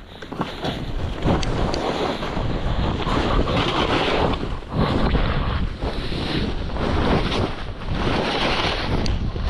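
Wind rushing over the microphone of a skier's camera during a fast powder run, with the hiss of skis through snow swelling and fading with each turn.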